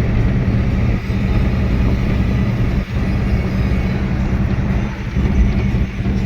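Truck engine running steadily at cruising speed, a loud low drone mixed with road noise.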